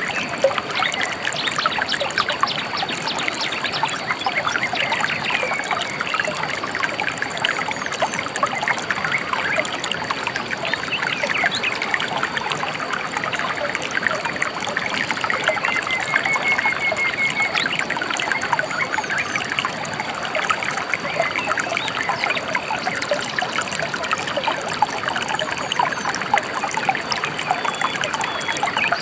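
Shallow river water trickling and babbling over stones at a steady level. A few faint bird calls come through now and then, one a short trill near the middle.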